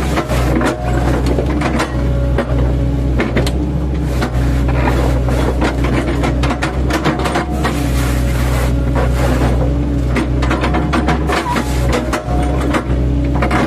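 An 8-ton mini excavator's diesel engine running steadily while its bucket, fitted with chipping blades, chops oil palm trunks, with many irregular crunching and cracking impacts of wood.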